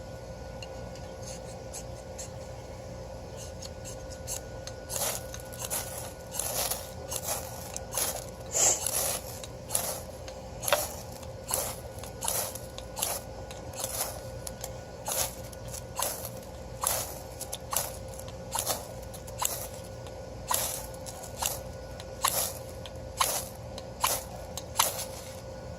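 Short, sharp scraping strokes by hand, about one a second, starting a few seconds in and running on in a steady rhythm, as in striking a ferro rod or shaving wood with a knife to start a fire.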